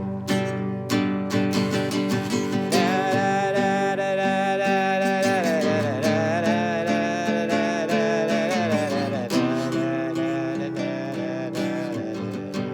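Acoustic guitar strumming chords in an instrumental break of a song. A sustained, wavering melody line sits over the chords from about three seconds in until about nine seconds.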